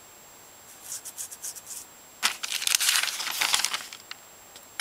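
Paper rustling as the pages of a small booklet are flipped and handled: a few light rustles, then a louder, longer stretch of crinkling.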